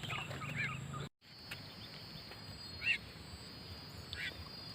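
Short bird calls repeating about every second and a half over a steady high-pitched whine, after the sound cuts out briefly about a second in.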